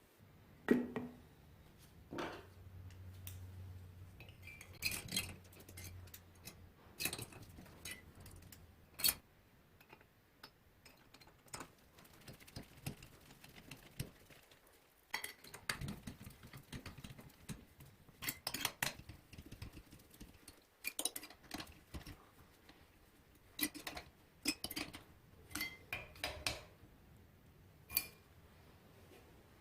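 Irregular clinks and knocks of small metal parts and hand tools being handled on a work surface. A faint low hum starts about two seconds in and lasts several seconds.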